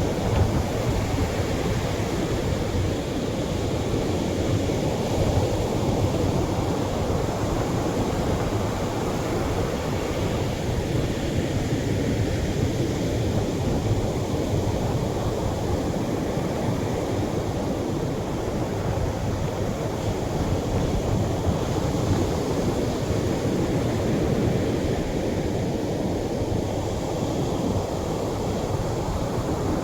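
Atlantic surf washing onto a beach: a steady low rush of breaking waves that swells and eases gently every several seconds.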